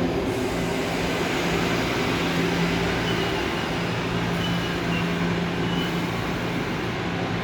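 Seoul Subway Line 3 train with unmodified GEC chopper control, a steady mechanical train noise with a constant low hum and faint high tones partway through.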